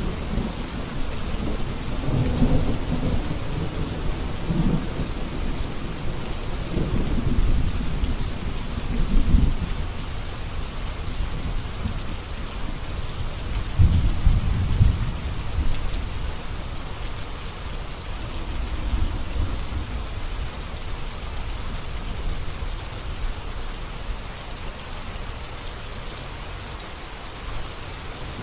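Steady heavy rain falling, with low rolls of thunder rumbling several times through the first half, loudest about a third of the way and halfway through, then easing off.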